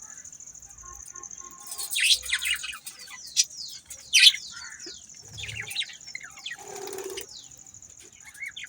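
Budgerigars chirping and chattering in a run of quick, falling chirps, loudest about two and four seconds in, over a steady high-pitched ringing tone.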